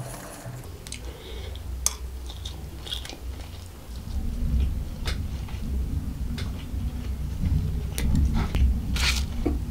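Close-miked chewing of a mouthful of chicken fried rice: a low, steady rumble of chewing with a few short wet clicks and smacks, louder from about four seconds in.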